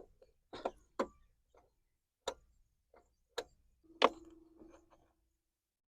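Key working the ignition lock of a TVS Jupiter 125 scooter and the plastic latch of the front fuel-filler lid releasing: a series of separate sharp clicks, the loudest about four seconds in, followed by a brief faint rattle.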